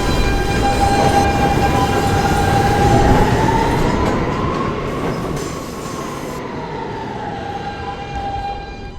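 New York City subway train running through the station: a loud rumble of wheels on rail with a high ringing squeal that rises in pitch about halfway through and falls back again. The sound cuts off suddenly at the end.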